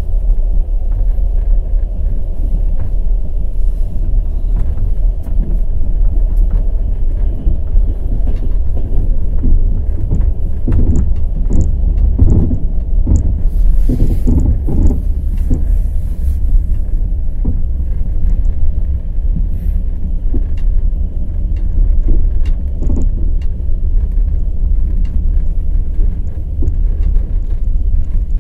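Wheels of a night express passenger train clattering over the rail joints, with a steady low rumble beneath. A denser run of knocks comes around the middle.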